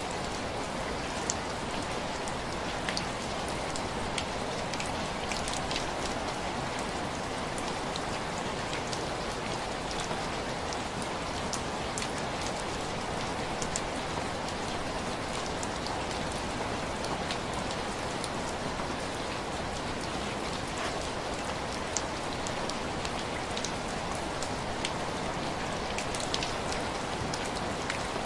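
Heavy rain falling steadily, with scattered sharp ticks and pops throughout.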